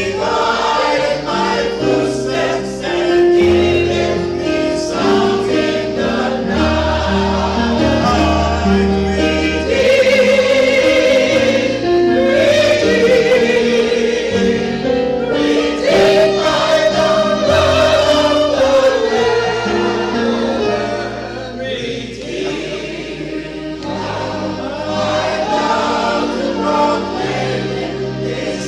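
Choir singing gospel music in held, sustained notes over a low bass line.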